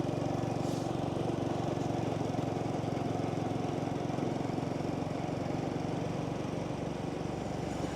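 Small motorbike engine running at a steady speed while riding, with road and wind noise.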